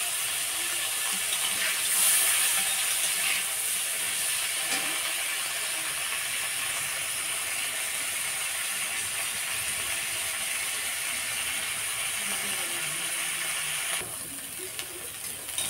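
Crabs frying in hot mustard oil in a wok, a steady sizzle as they are fried until red and crisp. The sizzle turns quieter about a second and a half before the end.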